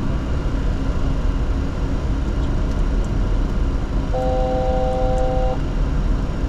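Steady engine and airflow noise inside the cockpit of a Bombardier Challenger 604 business jet. About four seconds in, an electronic cockpit tone of several pitches held together sounds for about a second and a half, then stops.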